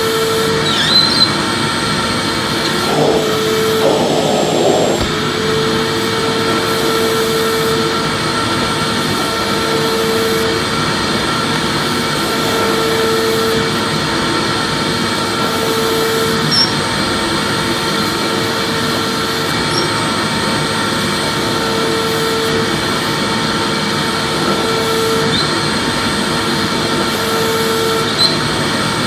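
Vacuum cleaner running steadily with a whining hum and a tone that swells and fades about every three seconds, used as continuous white noise.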